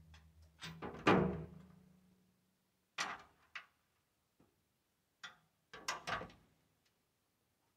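A series of knocks and clunks, about six, from climbing a ladder that stands in a tractor bucket. The loudest, about a second in, leaves a brief low ring.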